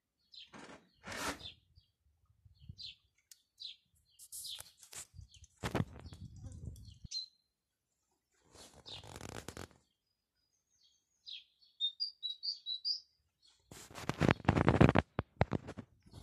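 Small birds chirping on and off, with a quick run of chirps about twelve seconds in. Several bursts of rustling noise come in between, the loudest near the end.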